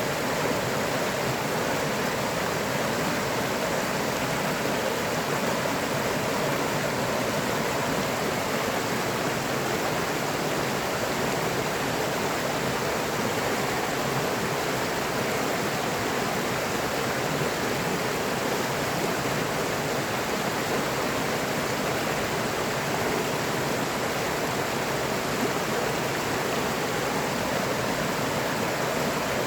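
River water flowing steadily, an even, unbroken rush of water with no separate splashes or other events.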